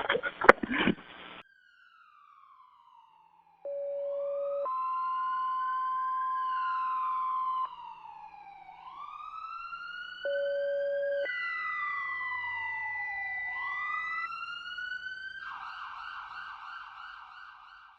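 Emergency vehicle sirens wailing in long rising and falling sweeps, overlapping steady held tones, as responders are called to a crash with people trapped.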